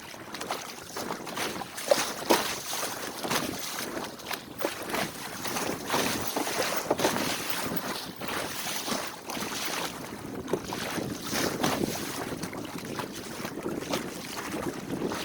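Water splashing and slapping irregularly against a small boat's hull as it moves along, with wind buffeting the microphone.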